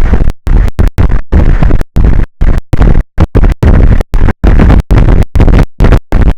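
Wind buffeting an outdoor camera microphone, loud and distorted, heaviest in the low end. The signal cuts out abruptly to silence about twice a second.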